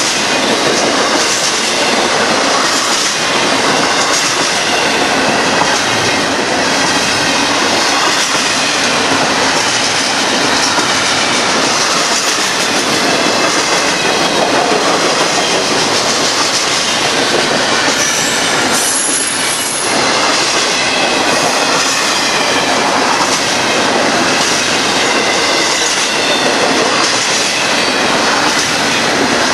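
Union Pacific container train's cars rolling past: a steady, loud rush of steel wheels on rail with faint ringing wheel squeal. A brief high squeal comes a little past the middle.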